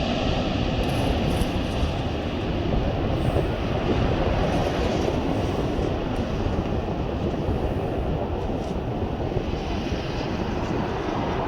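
Airbus A400M's four turboprop engines during the landing, heard as a steady, loud rumble with no clear pitch, heaviest in the low range.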